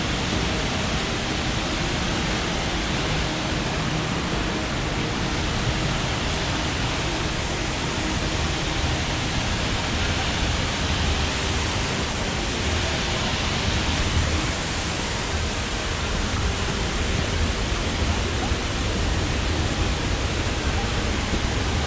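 Looking Glass Falls, a waterfall, pouring steadily: an unbroken rushing noise.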